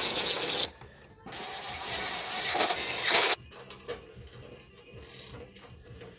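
Two long, loud hissing bursts of spray while a snowblower carburetor is being cleaned. The first cuts off within the first second, and the second runs for about two seconds before stopping abruptly. Faint small handling sounds follow.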